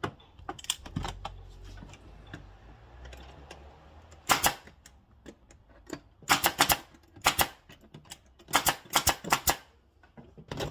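Clusters of sharp knocks and clacks, several quick strikes at a time, spaced a second or two apart, with a faint low rumble in the first few seconds.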